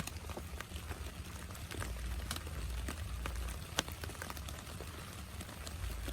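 Rain falling, with single drops tapping at uneven intervals, several a second, over a steady hiss and a low rumble.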